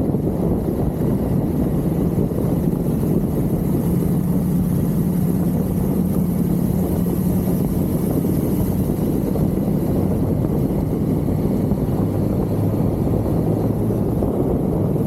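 1982 Suzuki GS550L's air-cooled inline-four engine running at road speed, mixed with heavy wind rush on the microphone. The engine note drops lower about eleven seconds in.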